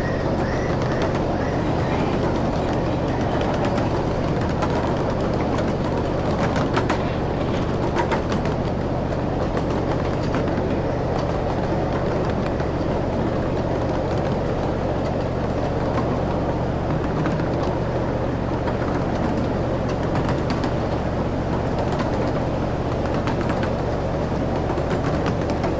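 Grand Concourse Railroad ride train running along its track: a steady rumble of the cars with a low hum, and a few sharp clicks from the wheels or rail joints.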